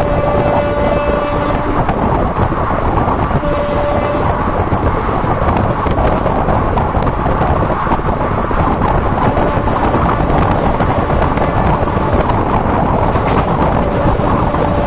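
Passenger train running on the track, a loud steady rumble with wind on the microphone. A thin steady whine comes and goes over it.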